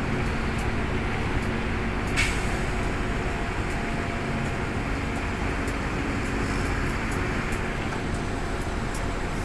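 Heavy construction machinery's diesel engine running steadily, with a brief sharp sound about two seconds in.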